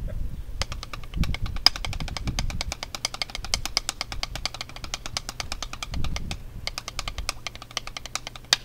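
Drumsticks playing rudiments on a drum practice pad: a fast, even stream of stick strokes starting about half a second in, over a low rumble.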